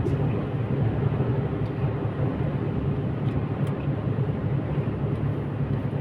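Steady low rumble of a truck on the move: engine and road noise.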